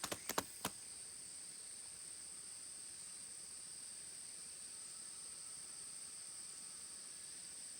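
Insects chirring outdoors in one steady, high-pitched drone, after a few sharp clicks in the first second.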